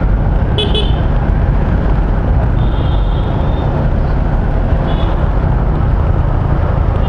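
Motorcycle on the move: steady wind rush and engine noise on a bike-mounted or helmet microphone. A few brief high-pitched tones sound over it, about a second in, around three seconds in and near five seconds.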